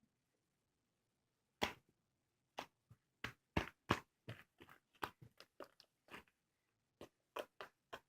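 Slime being squeezed and pressed by hand, giving a run of sharp, irregular pops and clicks from about a second and a half in, with a short pause near the end.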